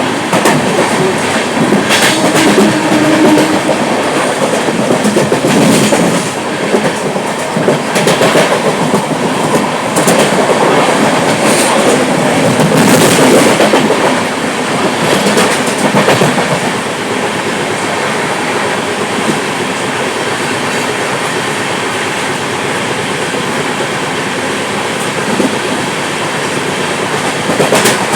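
Moving train running on rails, a loud steady rumble with wheels clacking over rail joints and points. The clacks come every couple of seconds in the first half, then the run turns steadier and a little quieter.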